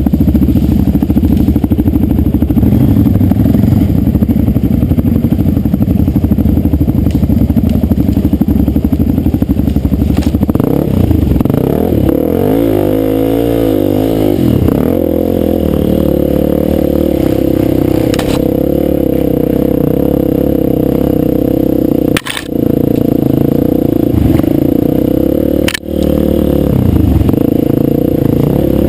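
Dirt bike engine running loud while riding, rumbling low at first, then rising and falling in pitch about halfway through before holding a steady higher pitch. The sound dips sharply for a moment twice near the end.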